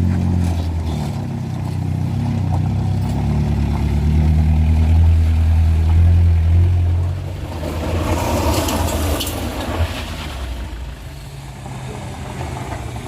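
A motor vehicle's engine runs loudly under load on a steep uphill climb. It fades after about seven seconds, with a rougher rushing noise just after.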